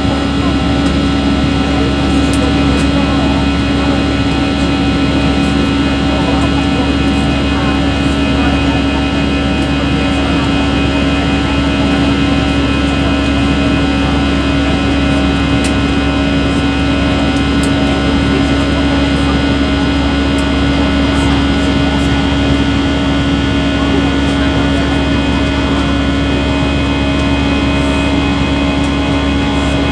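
Airbus A320's jet engines running steadily during takeoff, a loud, even drone with a strong low hum and several steady whining tones that hold unchanged.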